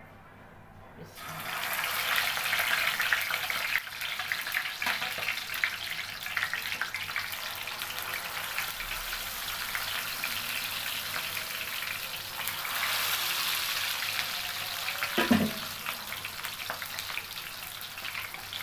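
Cabbage-leaf-wrapped pangas fish rolls sizzling as they fry in hot oil in a kadai; the sizzle starts suddenly about a second in, when the first roll goes into the empty oiled pan, and runs on steadily. A brief thump about fifteen seconds in is the loudest moment.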